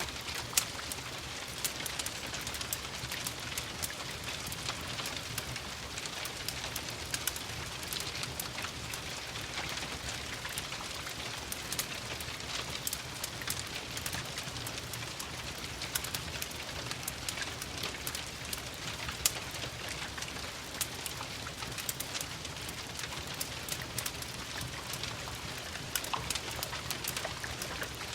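Steady rain falling, mixed with the sharp, irregular crackle and pops of a wood fire burning in a fireplace.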